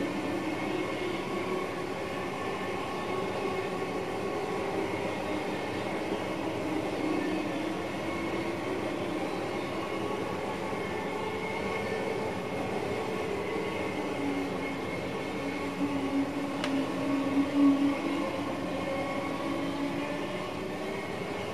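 VIRM double-deck electric train running along the track, heard from inside the driver's cab: a steady rumble with humming tones that waver slightly in pitch. One sharp click comes about two-thirds of the way through, and the sound swells a little just after it.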